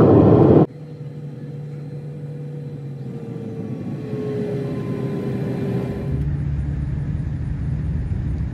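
Background music cuts off under a second in. After that there is a steady low mechanical hum, like an engine or motor, with faint tones that slowly fall in pitch, growing a little louder.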